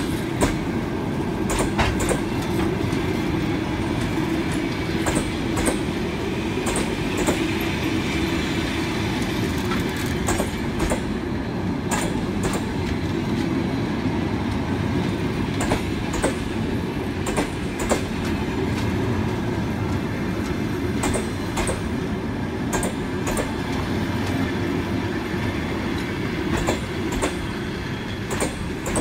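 Passenger train coaches rolling past close by: a steady rumble of wheels on the rails, broken by frequent sharp clacks as the wheels cross rail joints.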